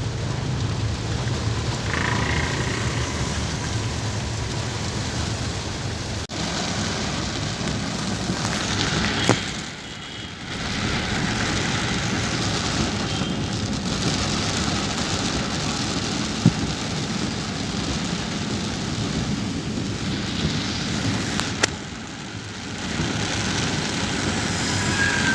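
Rain falling on a moving car, a steady hiss of rain mixed with road noise. The hiss dips briefly twice, and a few single sharp clicks stand out.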